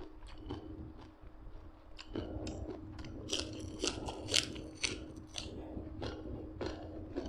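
A person chewing and crunching food close to the microphone, with irregular crunches that come thickest and loudest in the middle.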